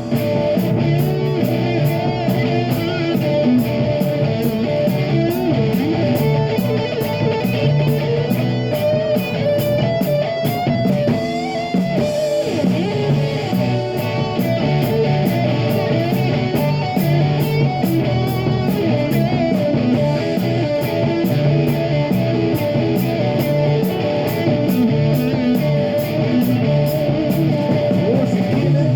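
Live rock band playing an instrumental stretch, with guitar to the fore over drums keeping a steady cymbal beat.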